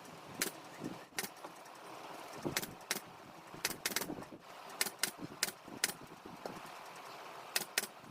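Sharp, short clicks at irregular intervals, often two in quick succession, about a dozen in all, over a low steady background hiss.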